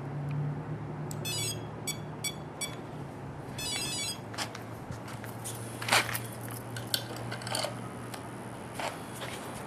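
Align T-Rex Pro flybarless electric RC helicopter running on the ground with a steady low hum, a little higher in the first second. A series of short electronic beeps sounds between about one and four seconds in, and scattered sharp clicks follow later.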